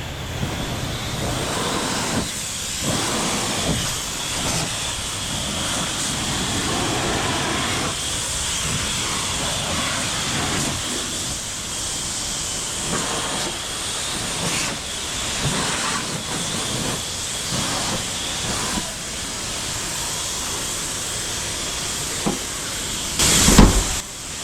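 Pressure washer jet spraying water onto a car: a steady hiss whose tone keeps shifting as the spray moves over the bodywork, with a short louder blast near the end.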